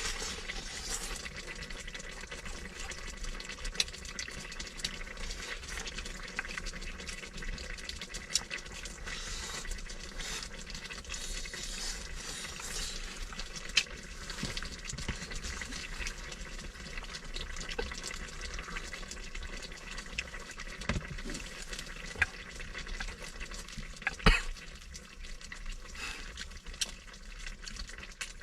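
Food cooking on a heating stove: a steady hiss with scattered light clicks, and a sharper knock about 24 seconds in.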